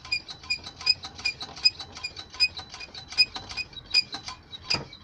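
Rear drum brakes of a Chery Bonus 3 (A19) squeaking: short high squeaks repeating evenly, about two and a half a second, with a louder click near the end.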